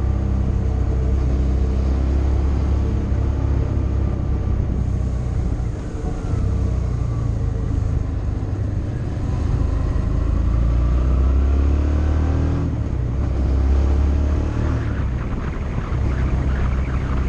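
Motorcycle engine running under way, its pitch climbing as it accelerates through the middle and then dropping sharply about thirteen seconds in.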